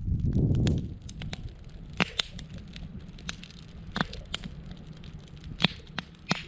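Wood campfire crackling: scattered sharp pops and snaps a second or two apart over a faint low rustle, with a brief low rush of noise in the first second.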